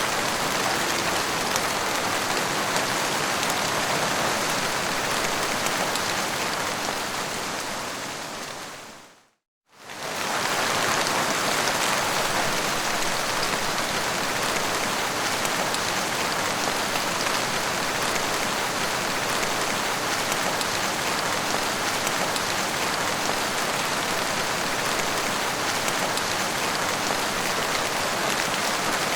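Steady rain falling. About nine seconds in it fades out to silence for a moment and then swells back in.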